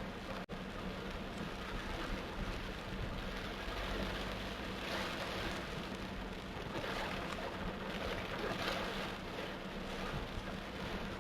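Heavy torrential rain pouring down steadily, with a low steady vehicle hum underneath; the sound cuts out for an instant about half a second in.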